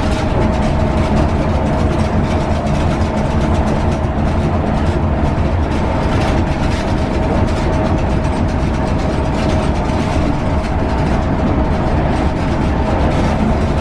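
Scania K320UB city bus cruising along a guided concrete busway: a steady engine and running drone with a constant whine over it.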